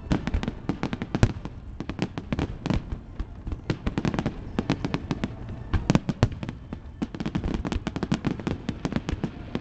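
Large professional fireworks display: a rapid, unbroken barrage of sharp bangs and crackling shell bursts, several every second.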